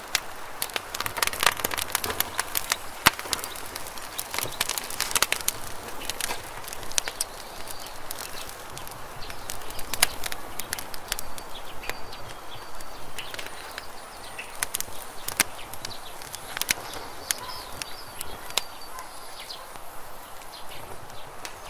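Campfire burning, wood crackling and popping in sharp irregular snaps, thickest in the first few seconds and sparser after. A few faint high chirps sound in the second half.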